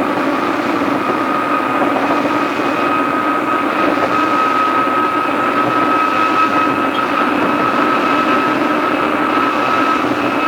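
Tokyu 2000 series electric train running, heard on an old cassette tape recording: a steady whine over continuous rumbling rail noise.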